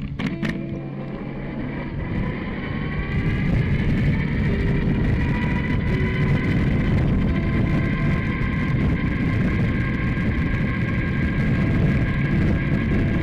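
Riding on a two-wheel-drive vehicle: rushing wind noise with a steady whine whose pitch slowly rises as it picks up speed, growing louder about three seconds in. A short click just after the start.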